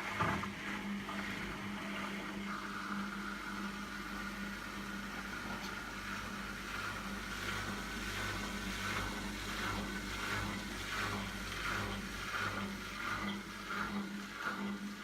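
Siemens washing machine running after its motor's broken tachogenerator magnet was replaced: a knock right at the start, then the drum motor turning with a steady hum and a higher whine that comes in a couple of seconds in.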